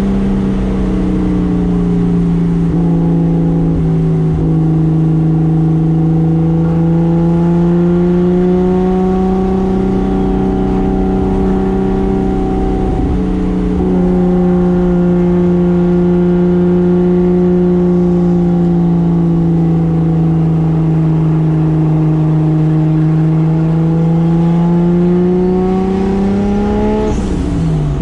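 A 1995 Toyota Soarer's single-turbo 2JZ inline-six running under steady part throttle. Its note sags and rises gently over several seconds at a time, with a brief break about halfway through and a quick drop and return in pitch near the end.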